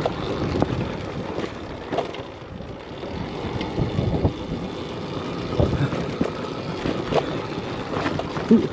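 Electric dirt bike ridden over rough trail: tyres on dirt and rock with irregular knocks and rattles from the bike, and wind on the microphone. A sharper knock comes near the end.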